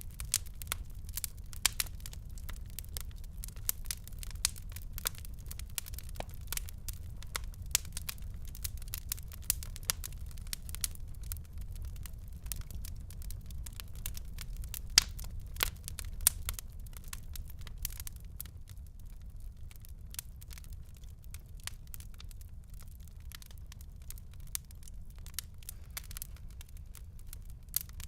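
Wood fire in a fireplace crackling: a steady stream of sharp pops and snaps, denser in the first half, with a couple of louder pops midway, over a steady low rumble.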